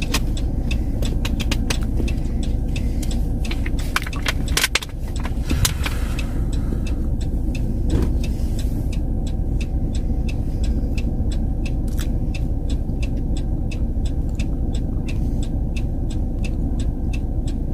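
Steady low rumble of a car running, with a regular light ticking of about two to three ticks a second starting around six seconds in.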